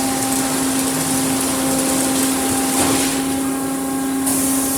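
Autec Evolution in-bay automatic car wash running: a steady electric pump hum under the hiss of water spraying. The spray hiss cuts out for about a second past the middle, then comes back.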